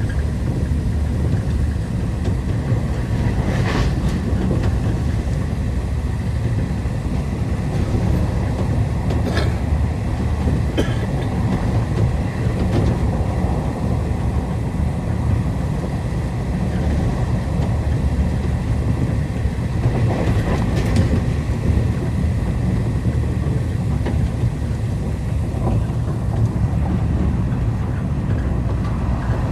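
Passenger train running along the track: a steady low rumble of the moving carriage, with a few short sharp knocks along the way.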